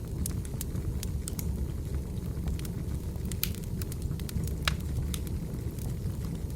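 Burning firewood crackling: irregular sharp pops and snaps, a dozen or more, over a steady low rumble.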